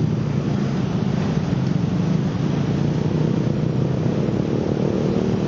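Passenger train's coaches rolling along the track, a steady low rumble.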